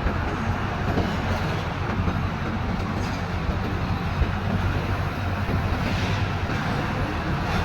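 Heavy diesel trucks running on a road: a steady low engine rumble with road noise.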